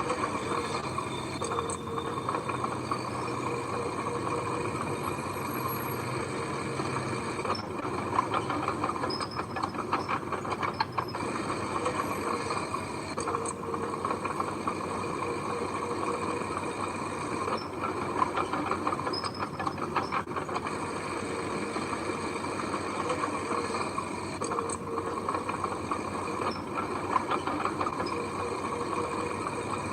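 Heavy earthmoving machinery running steadily, with scattered metallic clanks and knocks.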